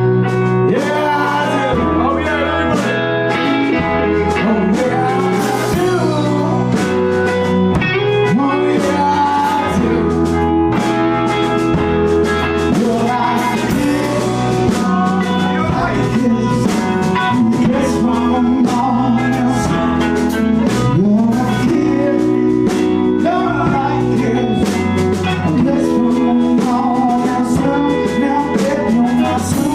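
A blues-rock band playing: guitar and drum kit with a singer's voice over them, and a low line moving in steps underneath.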